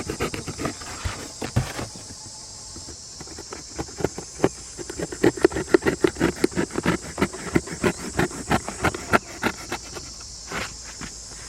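A rapid, uneven run of light taps or knocks, thickest in the middle, over a steady high insect drone.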